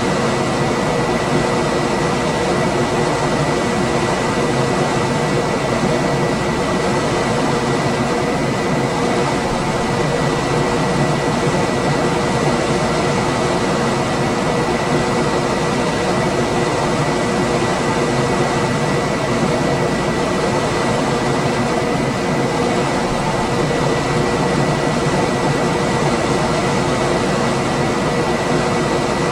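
Room air conditioner running steadily: an even rush of fan and airflow noise with a faint high whine and a low hum held constant through it.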